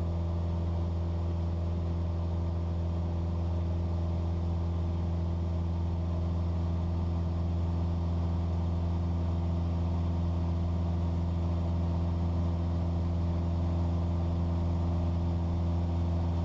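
Cessna 172's single piston engine and propeller droning steadily as heard inside the cabin, working at climb power in thin air near 10,000 ft where the aircraft barely climbs.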